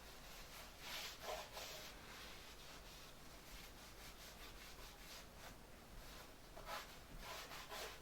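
Faint rubbing and scraping as something is handled, with a few brief louder scrapes about a second in and again near the end.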